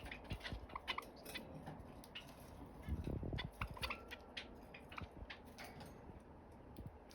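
Pet Java sparrow making faint scattered clicks and a few short, soft chirps, with a brief low rumble about three seconds in.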